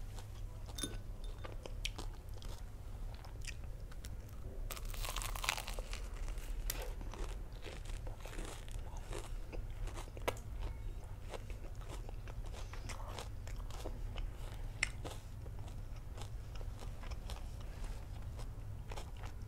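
Close-up biting, crunching and chewing of a deep-fried sausage on a stick with a crispy breaded coating: many small crackly crunches, with a denser spell of crunching about five seconds in.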